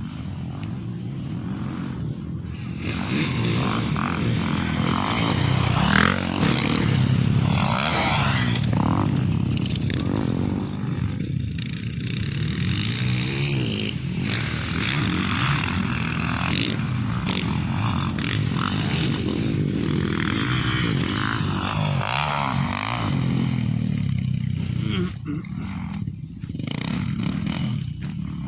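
Motorcycle engine running under way, its revs rising and falling again and again as it rides.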